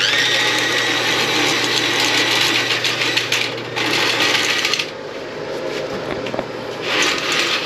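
Milwaukee M12 auto-feed toilet auger's motor running, spinning its cable in the toilet drain with a whirring rattle. The motor runs for about five seconds, the sound drops to a lower rattle, and a short burst of motor comes near the end.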